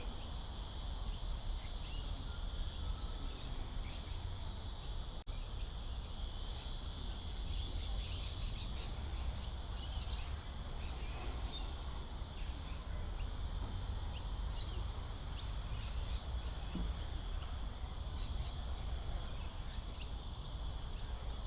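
Outdoor insect chorus of crickets trilling steadily in several high-pitched layers, over a constant low rumble. The sound drops out for an instant about five seconds in.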